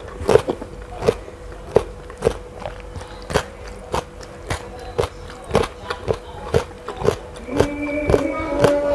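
Close-miked chewing of crunchy raw fruit from a rujak, with crisp crunches about two to three a second. Near the end a held droning tone comes in underneath.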